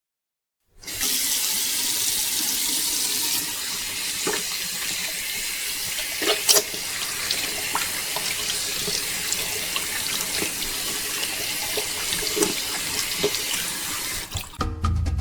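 Water pouring and splashing steadily, with a few sharper splashes or knocks; music comes in near the end.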